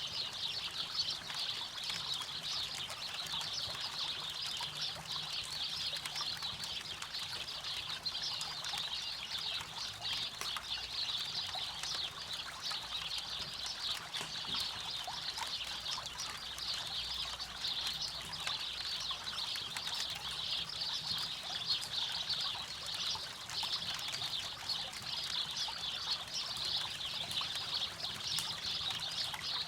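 River water flowing steadily, with a campfire crackling in small, irregular pops over it.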